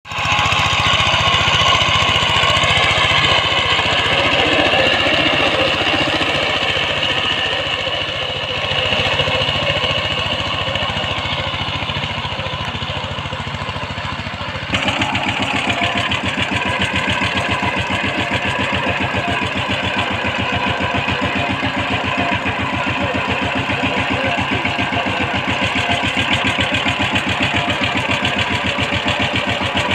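Power tiller engine running steadily. About halfway through the sound changes abruptly to a plainer, even, rapid firing beat.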